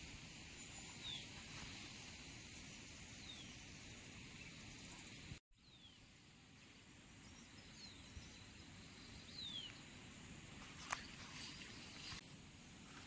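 Quiet outdoor ambience with a faint steady hiss, and a few short high chirps that fall in pitch, a bird calling now and then. The sound cuts out for a moment about five seconds in.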